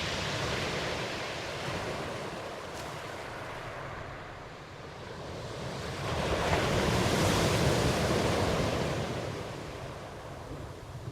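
Ocean surf washing in steadily, with one wave swelling about six seconds in, breaking loudest a second or two later, then drawing back.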